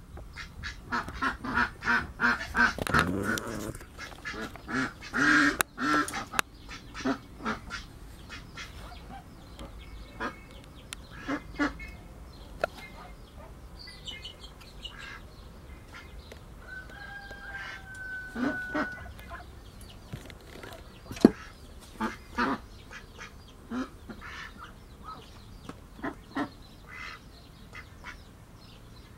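Birds calling, in quick pulsed calls over the first few seconds and one longer held call near the middle. Scattered clicks and taps run through it, with one sharp click about three-quarters of the way through.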